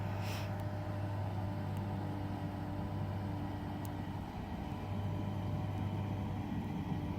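A steady low mechanical hum with several faint steady higher tones, and a brief hiss about a third of a second in.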